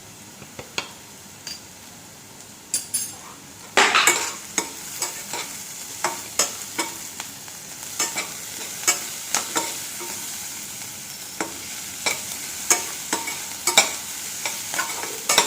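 Chopped onion, garlic and ginger frying in coconut oil in a pan, stirred with a spatula that taps and scrapes against the pan in irregular clicks over a steady sizzle. The sizzle picks up about four seconds in, as salt is stirred into the onions while they soften.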